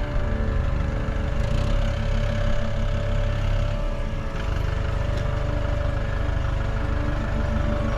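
Engine running steadily, a low rumble with a steady whine over it; the low note changes briefly about four seconds in.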